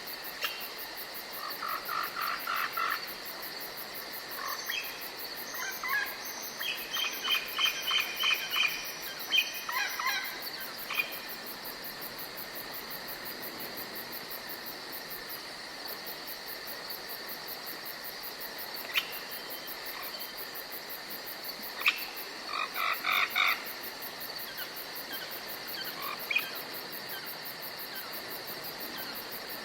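Insects, crickets by the sound, chirring in a steady high drone. Over it come several bursts of rapid pulsed calls from other animals: one early, a longer run in the first third, and another about two-thirds of the way in.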